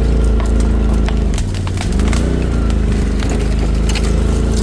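Polaris RZR side-by-side engine running steadily under load. The engine note sags about one and a half seconds in, then swells and settles. Scattered sharp clicks and knocks run through it.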